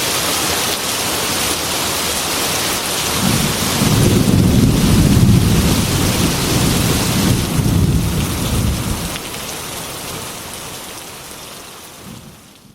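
Heavy rain hissing steadily against a glass window, with a long roll of thunder rumbling from about three seconds in to about nine seconds. The rain then fades out near the end.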